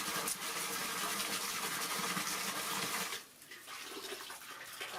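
Water running steadily, as from a tap filling a bath, then shut off abruptly about three seconds in.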